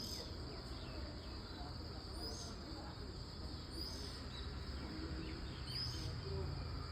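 Jungle ambience: a short, high chirp repeating roughly every two seconds over a steady low rumble.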